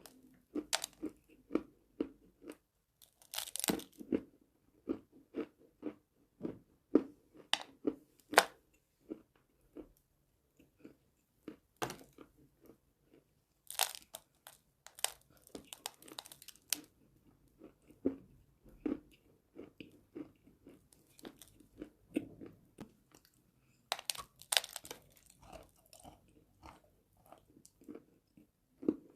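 Close-miked biting and chewing of chalk: sharp, crisp crunches every few seconds, with softer crunching chews in between.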